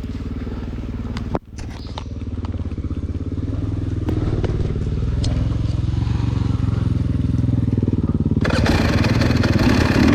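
Dirt bike engine running at a steady, low trail pace, briefly dropping out about a second and a half in, then picking up and growing louder and harsher near the end as the throttle opens.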